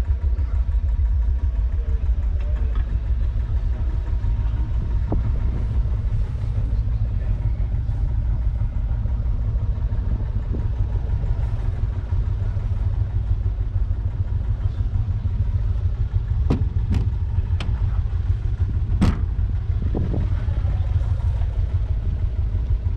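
UTB Universal 550 tractor's 3.1-litre four-cylinder diesel engine idling steadily. A few sharp clicks or knocks come in quick succession about two-thirds of the way through.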